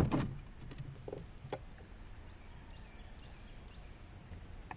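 Quiet outdoor background noise with a couple of faint short clicks a little over a second in.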